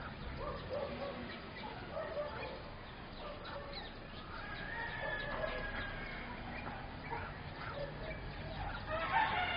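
Birds calling at intervals, with one longer held call near the middle and a louder run of calls near the end.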